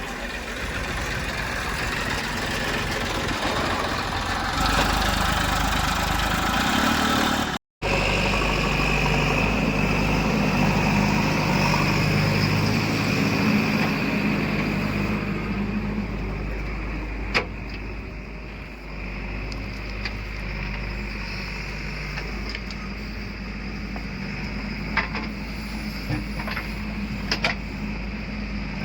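Heavy diesel machinery running steadily, with a brief break in the sound about eight seconds in. A few sharp knocks come later, the last ones near the end.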